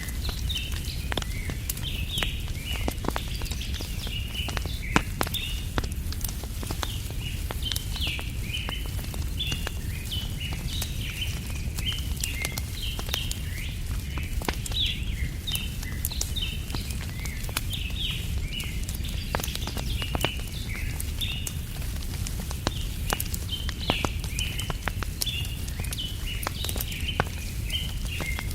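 Campfire crackling, with frequent sharp pops over a steady low rumble, while small birds chirp and twitter without a break.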